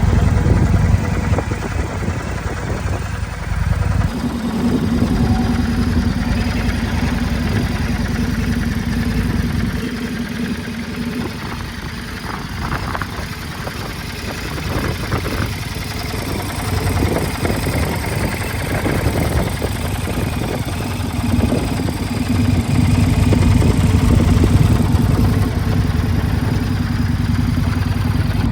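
2026 Indian Scout Bobber's 1250 cc V-twin engine running at idle. The sound dips a little in loudness about a third of the way in and builds again after about two-thirds.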